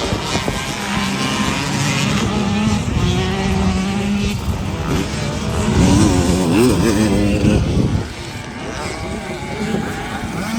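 Dirt bike engine running and revving, its pitch holding steady and then rising and falling several times near the middle.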